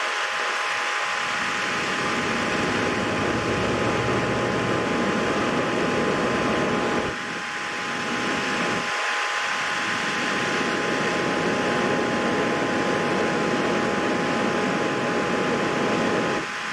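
Steady fan-like whooshing noise with two faint steady whine tones, dipping briefly about seven seconds in.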